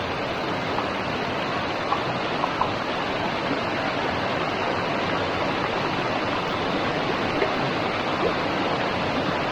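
Freedom Falls waterfall: a loud, steady rush of falling water, with a few faint clicks about two seconds in.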